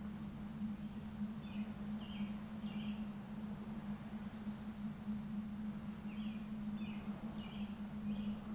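Small songbird chirping in two short runs of three or four chirps, over a steady low hum and an even background hiss.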